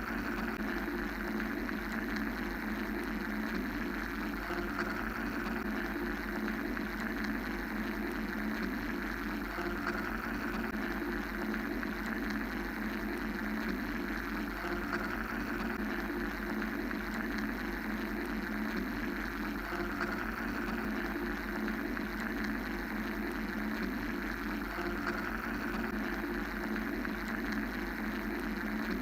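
Steady mechanical white-noise drone: an even hum and hiss with no pauses, its upper hiss swelling gently about every five seconds.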